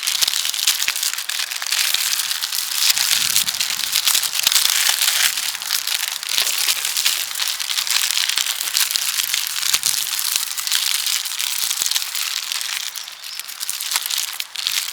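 Parchment paper being folded and crimped by hand around a pizza to seal it, giving a dense, continuous crinkling. It eases off a little near the end.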